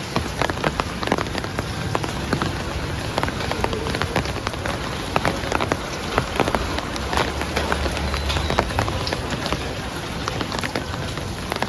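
Heavy rain falling, a steady hiss thick with the sharp taps of individual drops striking a hard surface close by.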